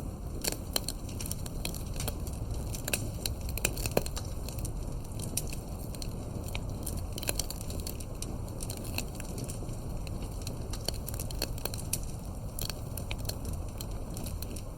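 Wood campfire crackling, with many irregular sharp pops and snaps of burning firewood over a steady low rumble.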